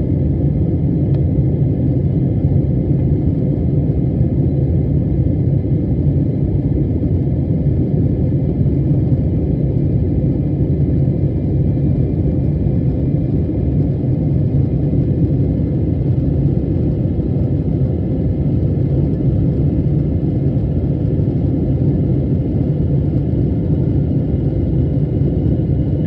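Steady low rumble of a jet airliner's engines and airflow, as heard from inside the passenger cabin. It stays even in level and pitch throughout, with a faint steady hum above it.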